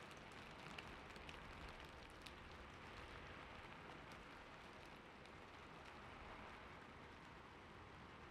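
Faint, steady background rain sound, with a few faint ticks in the first three seconds.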